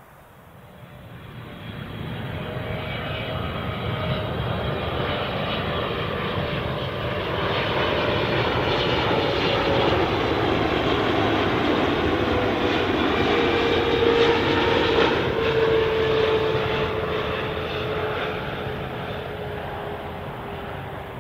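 Jet airliner's engines passing close by. The sound swells from about a second in to a peak around two-thirds of the way through, then fades, with a whining tone that slowly falls in pitch.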